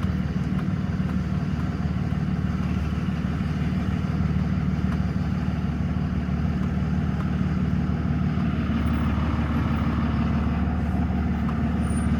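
A diesel truck engine running steadily, with a low, even drone.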